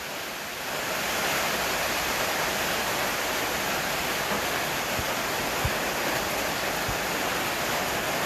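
Steady hiss of rain, growing a little louder about a second in, with a few faint low knocks.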